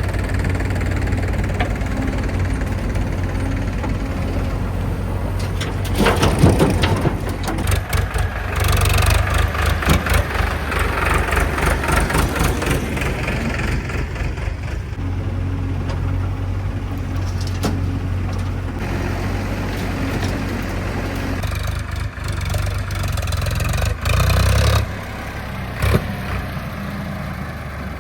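Diesel engine of heavy farm or earth-moving machinery running steadily. A louder stretch of rattling and clatter comes about six to thirteen seconds in, with a few sharp knocks later.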